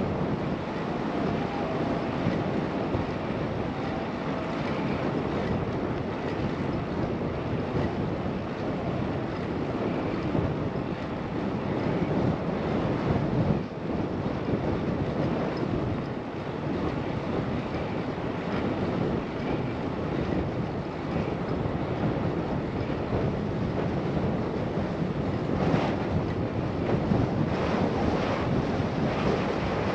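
Steady rushing wind noise on the microphone of a moving bicycle, with no distinct tones or impacts.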